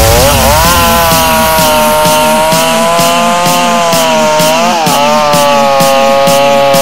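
Chainsaw running at full throttle, a loud high whine that sags in pitch as it takes load near the start and again about five seconds in, then climbs back. A music track with a steady beat plays underneath.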